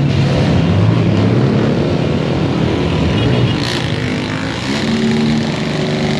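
Trail motorcycle engines running, their pitch rising and falling as the throttle changes.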